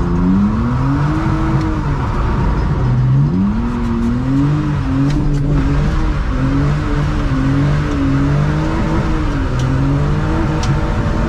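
BMW E46 325ci's straight-six with a header-back exhaust, heard from inside the gutted cabin, its revs rising and falling over and over as the throttle is worked.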